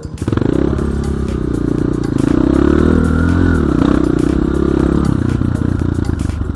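Enduro dirt bike engine pulled up from a chugging low-rev run about a quarter second in, then running under throttle with its pitch rising and falling and dipping briefly near the middle.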